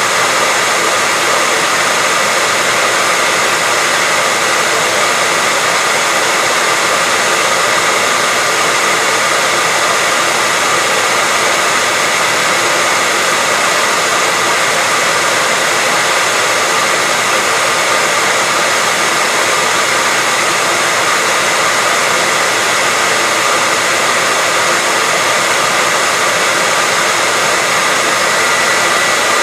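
Hair dryer running steadily, a constant rush of air with a steady whine from its motor and fan.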